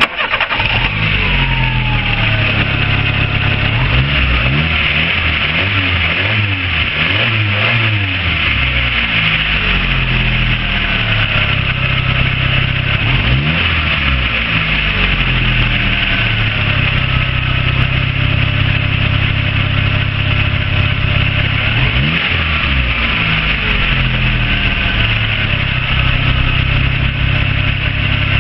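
Citroen KFX 1.4-litre four-cylinder petrol engine starting and running, mostly at a steady idle, with the throttle blipped several times: a run of quick rises and falls in revs a few seconds in, then single revs about halfway and about three-quarters of the way through.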